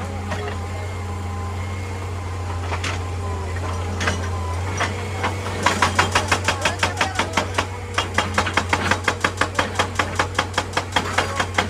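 Excavator engine running steadily with a few scattered knocks, then from about halfway through a hydraulic rock breaker hammering rapidly at about five blows a second, with a short break before it resumes.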